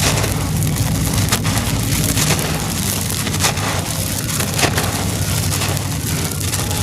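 Dry, hard, stony cement-and-dirt clumps crushing and crumbling, a continuous gritty crunch made of many small sharp cracks, over a steady low hum.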